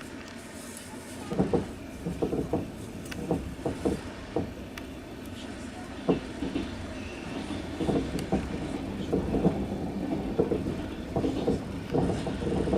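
Passenger train heard from inside the carriage: a steady rumble of running wheels and rails, with the wheels clacking over rail joints in irregular pairs and clusters.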